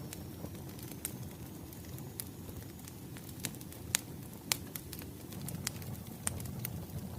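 Wood fire crackling: a steady low rumble of burning logs with sharp pops and snaps scattered irregularly, a few louder snaps near the middle.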